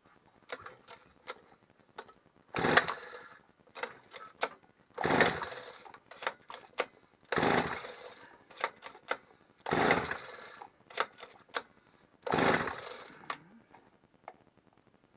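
Small Chinese-made outboard motor being pull-started: five pulls on the recoil starter cord about every two and a half seconds, each a short noisy burst, with lighter clicks in between. The engine does not catch and run.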